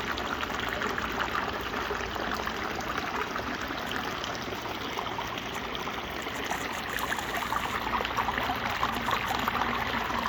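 Water running steadily down a pondless waterfall, a continuous splashing trickle.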